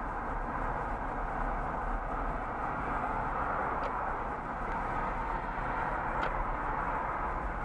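Steady road and engine noise of a moving car, heard from inside the cabin through a dashcam microphone, with two faint ticks partway through.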